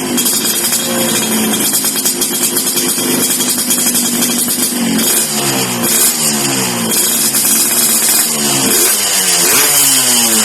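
Yamaha RX-King's two-stroke single-cylinder engine revving through an aftermarket racing exhaust. The pitch sweeps up and down several times, and the revs are held steadier for a few seconds about a second in.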